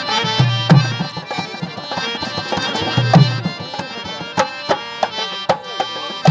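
Folk music: a hand drum in a steady rhythm with sharp strokes, over held melodic notes from an accompanying instrument.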